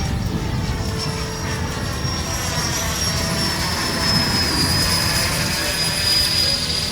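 Electric ducted fan of a radio-controlled Kawasaki T-4 model jet whining in flight. The high steady whine rises a little, then falls as the model passes, over a low rumble of noise.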